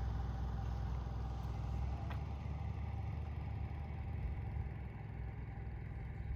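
Steady car road and engine noise heard inside the cabin while driving on the highway, a low rumble with a faint steady hum above it.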